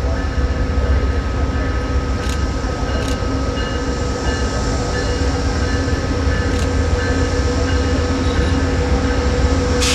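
Train running steadily: a loud low rumble with several steady whining tones above it and no change in pitch. A few faint clicks about two, three and six and a half seconds in, and a short burst of hiss at the very end.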